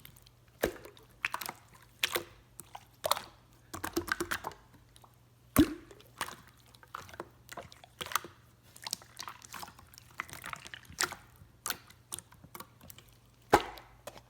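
Slime squished and pressed by hand, making irregular wet clicks and pops. The loudest pops come about half a second in, a little past five seconds, and near the end.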